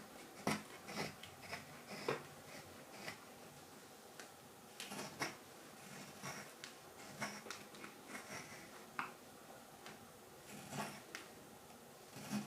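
Carving knife slicing shavings off a green wild cherry spoon in short, irregular strokes, each a quick crisp cut, sometimes two in quick succession and sometimes a second or more apart.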